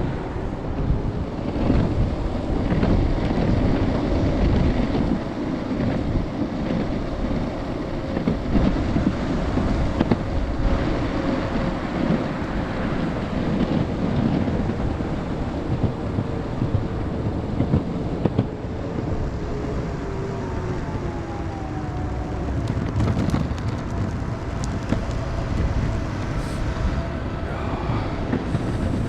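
Strong wind buffeting the microphone of a head-mounted action camera while riding an electric skateboard, a steady gusty rumble. Under it is a thin whine from the board's twin hub motors, which drops in pitch about twenty seconds in as the board slows.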